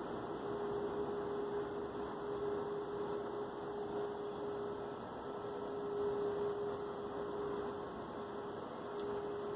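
A steady hum at one pitch over a background hiss, dipping briefly about halfway through and again near the end: the unexplained 'strange noise' the filmers are recording.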